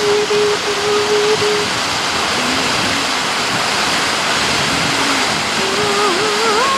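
Waterfall rushing steadily. A soft held musical tone sounds in the first second or so, and a wavering, theremin-like melody comes in near the end.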